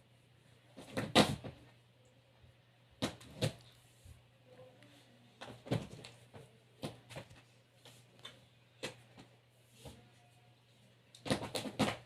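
Irregular knocks and taps: a loud cluster about a second in, a few more around three and a half and six seconds, and another cluster near the end, over a low steady hum.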